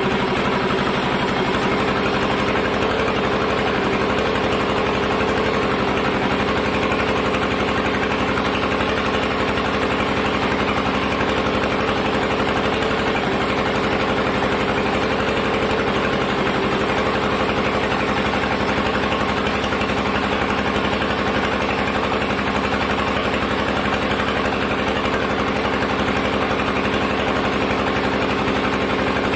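Sawmill machinery running with a steady, unchanging engine-like hum.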